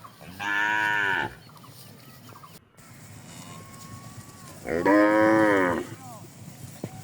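Cattle mooing: two loud calls about a second long each, one just after the start and one about five seconds in.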